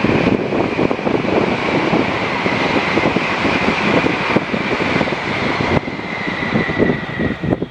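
Tokaido Shinkansen high-speed train passing at speed: a loud rushing roar with a high whine that slowly falls in pitch, with wind buffeting the microphone.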